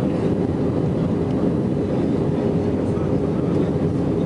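Steady cabin noise of an Airbus A320 on approach: engine and airflow noise heard from inside the passenger cabin, with a faint steady hum.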